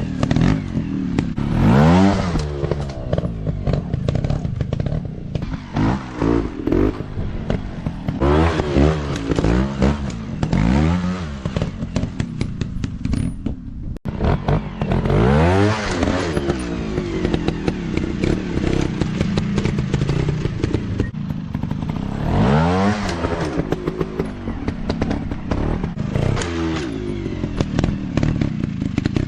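Small dirt-bike engine revving up and easing off again and again, its pitch sweeping up and falling back, with knocks and clatter from riding over rough ground.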